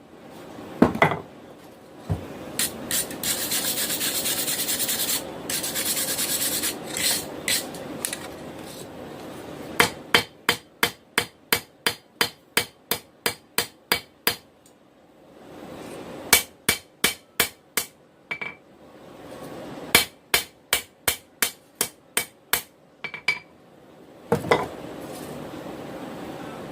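Hand hammer striking a hot steel knife blade on an anvil, in runs of quick, evenly spaced blows, about three a second, with short pauses between runs. A loud steady hiss fills one of the pauses early on.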